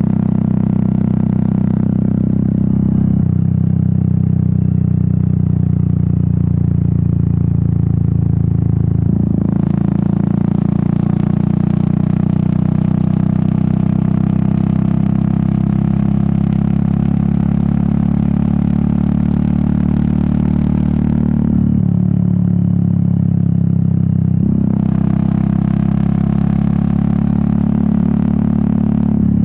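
Royal Enfield Meteor 350's single-cylinder engine and exhaust running on the road, heard from the rider's seat. The engine note shifts in steps several times. A rushing of wind comes in about a third of the way through, drops out about two-thirds through, and returns near the end.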